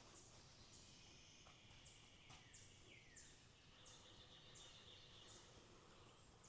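Faint bird song: a run of thin, high notes, each sliding downward, repeated about every two-thirds of a second over a faint steady insect hum.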